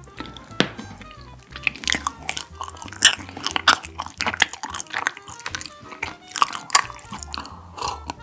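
Close-up chewing of a spoonful of creamy chestnut tiramisu: wet mouth smacks and sharp little clicks. The granola in it is soggy rather than crunchy. Background music plays underneath.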